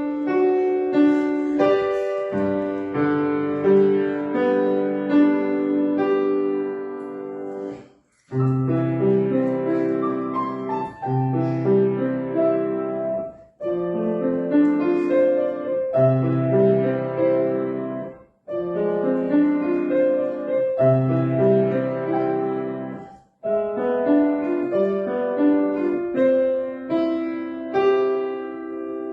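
Solo piano playing a gentle piece in short phrases, each ending in a brief pause before the next begins, with low bass notes held under the melody.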